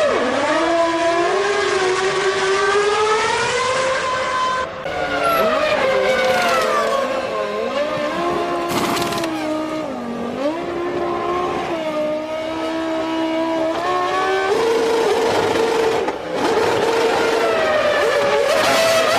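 Formula One cars' V10 engines running in the pit lane, their high pitch rising and falling as they are revved and pull away. The sound changes abruptly a few times.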